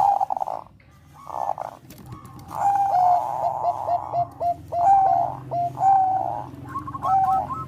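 Zebra doves (Thai-bred perkutut bangkok) cooing: short staccato notes, each with a hooked end, come in quick runs of about three or four a second, over a steady low hum.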